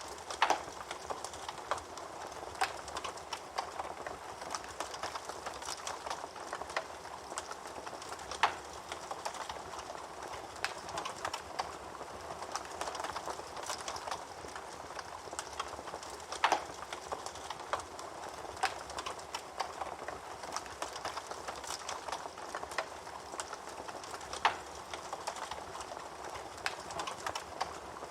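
Wood fire burning in a fireplace: a steady soft hiss full of small crackles, with a louder pop about every eight seconds.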